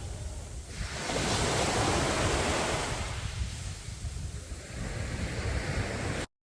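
Sea waves washing onto a beach: a wave surges in about a second in and slowly washes out, with wind rumbling on the microphone. The sound cuts off abruptly near the end.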